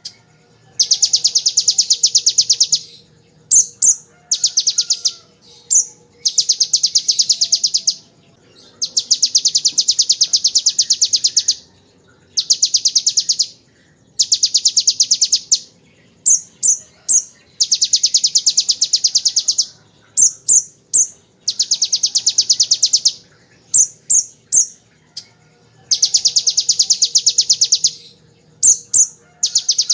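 Kolibri ninja (konin) sunbird singing: long, rapid buzzing trills of two to three seconds each, in the style of the bar-winged prinia's (ciblek) machine-gun 'bren' trill. Between the trills come quick groups of two to four high chirps.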